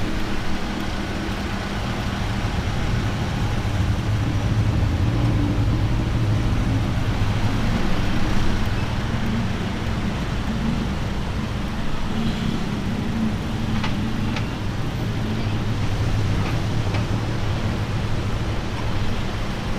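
Road traffic at a standstill in a jam, with a nearby engine idling steadily over the street noise.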